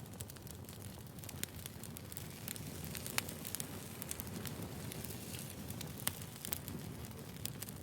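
Wood fire burning, a steady low hiss and rumble with frequent sharp crackles and pops of burning firewood.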